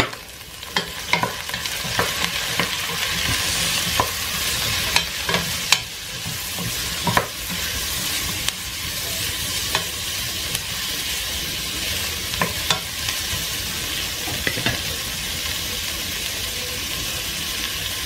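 Sliced leeks sizzling as they fry in a stainless steel pot, stirred with a wooden spoon that knocks against the pot now and then. The knocks stop after about fifteen seconds while the steady sizzle goes on.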